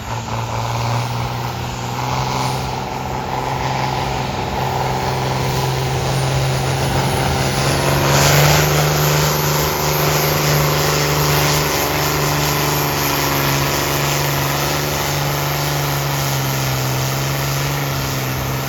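A farm tractor's engine running hard under load while pulling. Its pitch and loudness rise a little about eight seconds in, then hold steady.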